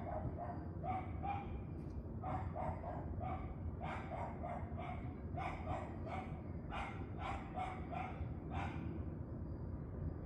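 A dog barking in quick repeated yaps, about three a second, with a short break near two seconds in, stopping about nine seconds in, over a steady low rumble.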